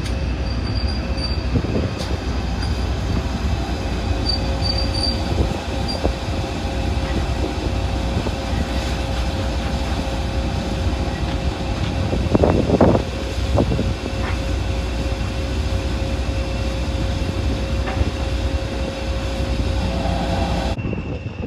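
Steam-hauled train of coaches running away over curved pointwork: a steady rumble of wheels on rail, with a brief squeal of wheel flanges about halfway through.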